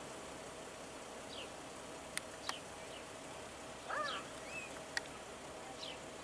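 Birds calling: short falling chirps every second or so, with a louder call about four seconds in, over a faint steady hum and a few sharp clicks.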